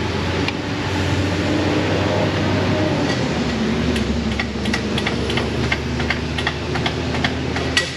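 Steady hum of shop machinery running, with a string of light, irregular metallic clicks and taps from about three seconds in as a bracket and tools are handled under the truck.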